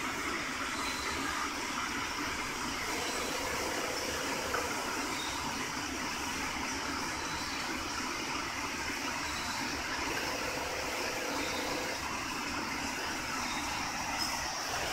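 Steady mechanical running noise of an industrial long-arm double-needle sewing machine, even throughout with no distinct stitch beat.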